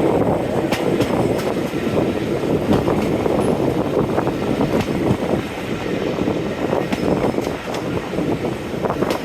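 Passenger train running along the line: continuous rumble of wheels on rail with irregular clicks and clatter from the track.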